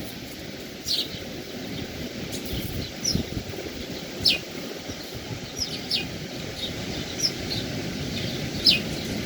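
Birds calling with short, sharply falling chirps, a dozen or so scattered irregularly. Under them runs a steady low rush of the sea.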